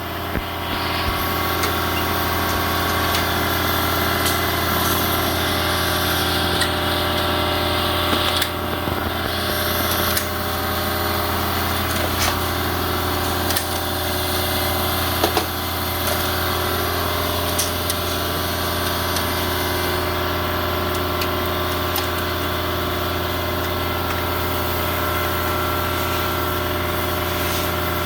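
An engine running steadily at an even speed, with a steady low hum and a few light clicks scattered through it.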